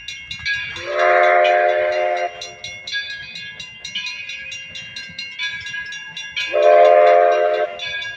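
Steam locomotive whistle blowing two blasts of a little over a second each, about five seconds apart, as the Edison steam train approaches. Between the blasts there is a quick, regular ticking from the moving train.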